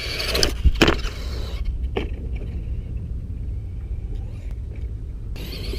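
Brushless electric motor of a Traxxas Slash 2WD RC short-course truck whining high and changing pitch, with two sharp knocks about a second in. The whine then drops away, leaving a steady low rumble, and comes back near the end.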